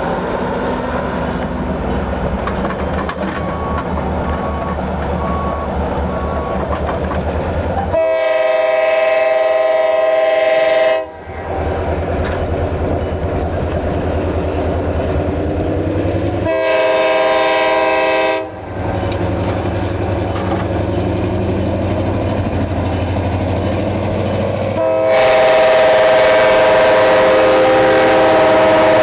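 EMD GP38 diesel locomotive running under load with a steady low rumble, its air horn sounding three times: a blast of about three seconds some eight seconds in, a shorter one near the middle, and a long one near the end. It is the horn signal for a grade crossing.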